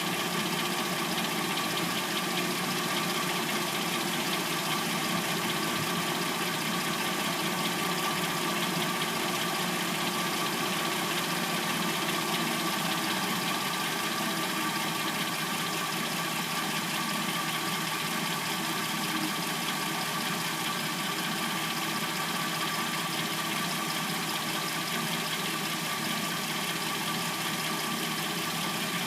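Warmed-up replacement engine of a 2006–09 Hyundai Sonata idling steadily, with a little clackety noise that the owner assumes is the timing chain.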